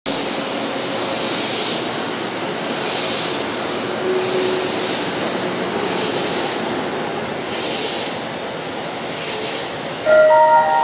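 A Tobu 9000 series electric train standing at an underground platform with its doors open: a steady hum with a high hiss that swells about every one and a half seconds. About ten seconds in, a platform departure melody starts in chime-like tones, the signal that the train is about to leave.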